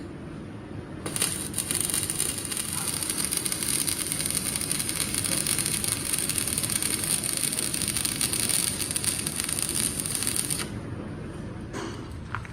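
Welding arc crackling steadily, starting about a second in and cutting off abruptly about ten seconds later.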